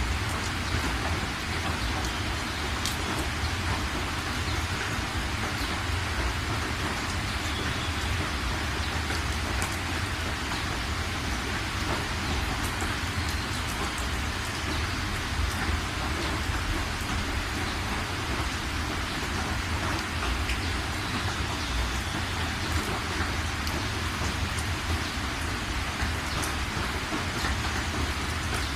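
Steady heavy rain with drops pattering on a surface and a constant low rumble underneath.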